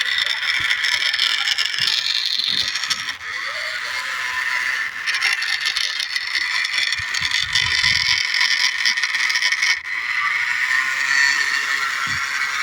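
Remote-control toy tractor's small electric motor and gears whining as it drives over loose soil, easing off briefly a few times, with light scraping and knocks.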